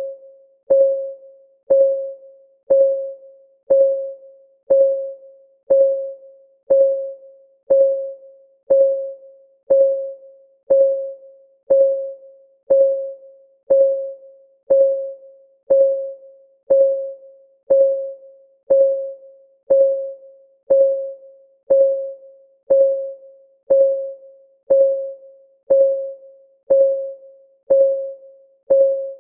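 Timer's clock-ticking sound effect: a short, pitched electronic tick about once a second, each one fading quickly, in a steady unbroken rhythm.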